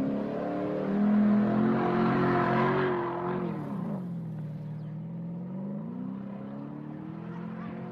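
Porsche Cayenne's engine revving hard while its wheels spin in loose sand, with a hiss of flung sand over the engine note. The engine pitch drops about three and a half seconds in and climbs again around six seconds.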